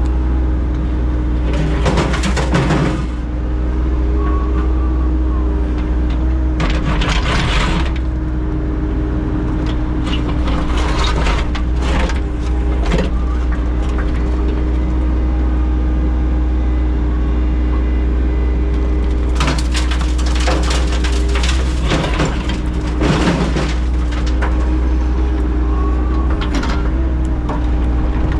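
An engine running steadily at a constant speed, typical of work equipment digging out a driveway, with several bursts of scraping and clattering over it.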